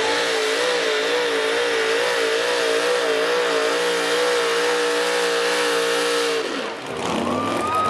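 Pulling truck's engine running hard at high revs under load, its pitch wavering up and down a couple of times a second. The engine drops off about six and a half seconds in, and a higher rising engine tone starts near the end.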